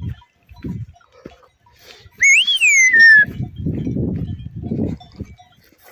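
Goats bleating: several short low bleats, and one loud high-pitched cry about two seconds in that rises and then falls in pitch.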